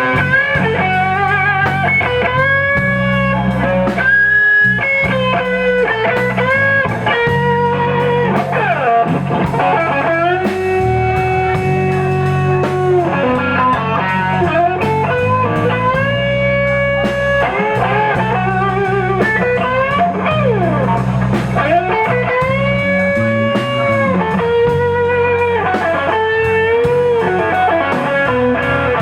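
Electric blues guitar solo in a slow blues: long held notes bent up in pitch and shaken with vibrato, with quicker runs in between, over the band's bass and drums.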